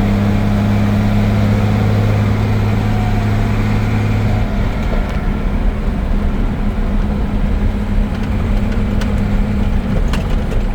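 Truck engine and road rumble heard from inside the cab while driving; the engine's steady low hum drops away about four seconds in, leaving mostly road and tyre rumble.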